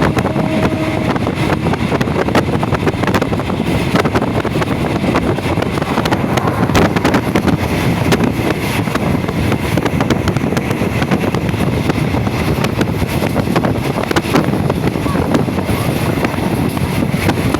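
Steady rumble and rattle of a passenger train under way, heard from inside the carriage. Irregular clicks and knocks from the wheels and the coach run through it, with wind buffeting the microphone.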